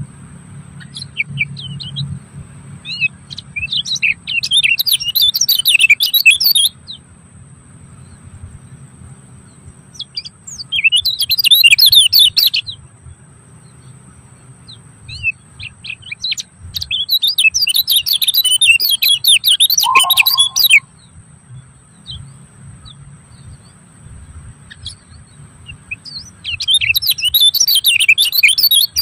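A songbird singing in bouts of rapid, high twittering notes, each bout lasting two to four seconds, four times with pauses between. A faint low rumble and a thin steady high tone sit underneath.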